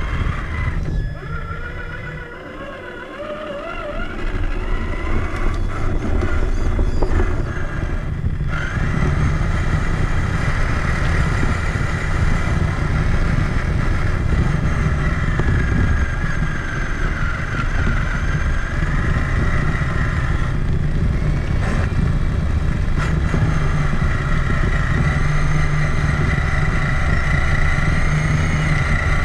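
Traxxas Summit electric RC truck driving, heard from a camera mounted on its body. The whine of the motor and gearbox rises in pitch in the first few seconds as it speeds up, then holds fairly steady over a constant low rumble.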